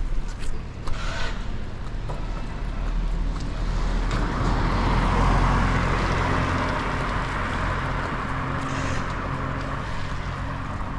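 A motor vehicle's engine running low and steady on a rain-wet street, with tyre hiss on the wet road swelling a few seconds in and then easing off. A few sharp knocks sound in the first couple of seconds.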